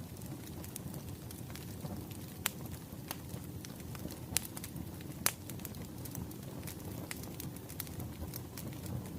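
Wood fire crackling: a steady low rumble of flames with scattered sharp pops and snaps, a few of them louder, the loudest about five seconds in.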